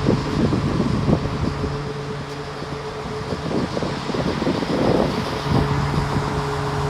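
An engine running steadily with a low hum that drops out briefly near the middle and returns, mixed with gusty wind noise on the microphone.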